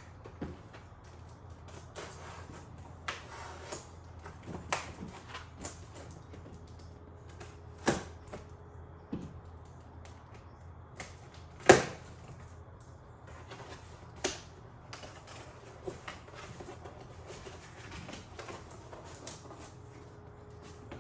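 Irregular clicks, taps and rustles of a package being handled and opened, with a sharp knock about twelve seconds in, over a low steady hum.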